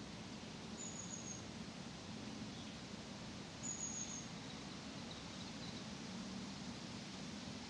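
Outdoor park ambience: a steady low background hum with two brief, thin, high-pitched bird calls, one about a second in and another near four seconds in, plus a few faint chirps.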